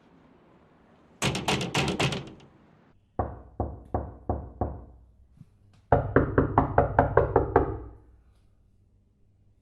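Knocking on a door in three rounds: a quick run of about eight sharp knocks, then five slower, duller knocks, then a fast run of about ten knocks.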